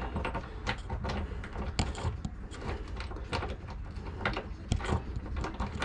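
Irregular small clicks, taps and scrapes of hands working on fittings and a bracket inside a boat hull, over a low steady hum.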